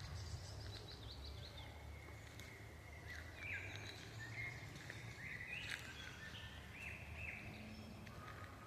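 Forest birds singing: a quick falling series of high notes about half a second in, then a run of short, sharply rising chirps through the middle. Under them runs a steady low rumble of wind.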